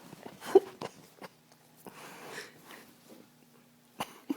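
Dog sneezing: one sharp, loud sneeze about half a second in, followed by quieter short sounds.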